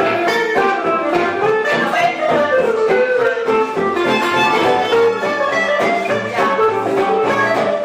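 Live band music, with a melody line moving over a steady accompaniment.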